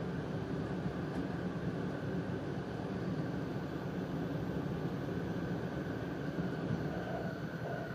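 Steady running noise heard inside the passenger cabin of an E4 series Max double-decker Shinkansen at speed: a low rumble from wheels on the track with a faint steady hum above it.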